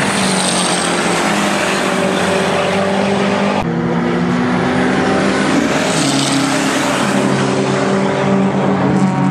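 A race car's engine running hard as the car drives at speed around the circuit. The engine note stays steady, with a sudden break about three and a half seconds in.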